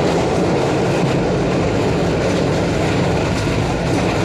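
Express passenger train running, heard from inside a coach: a steady rumble with rail and wheel noise and no break in it.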